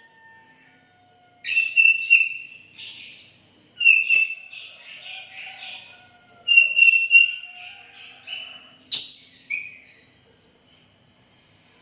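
Sooty-headed bulbul (kutilang) singing: four loud bursts of whistled notes about two and a half seconds apart, falling quiet near the end.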